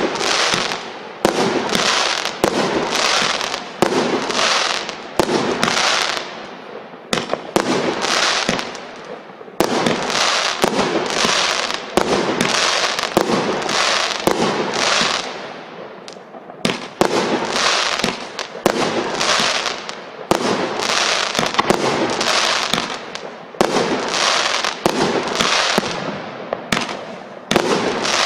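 A 36-shot consumer fireworks cake firing shot after shot: sharp bangs from the launches and breaks come about once a second, each followed by a fading crackling hiss as the glittering stars burn out.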